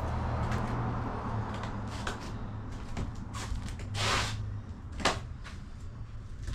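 Camping gear being handled and set down: scattered light clicks and knocks, a brief rustle about four seconds in and a sharper click about a second later, over a low rumble that fades.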